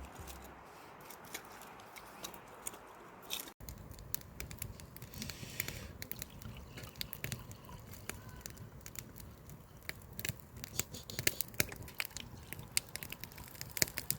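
Faint, scattered small clicks and crackles over a low hiss, with a brief dropout about three and a half seconds in.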